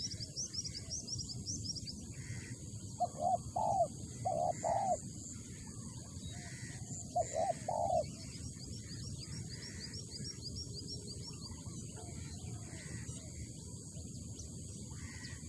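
Spotted dove (tekukur) cooing: two phrases of a few low, rounded coo notes, a few seconds apart. Small birds chirp high and thin near the start and again later.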